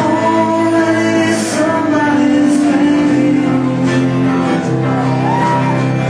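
Live band music with a sung vocal, steady and loud, with held and gliding sung notes over the instruments.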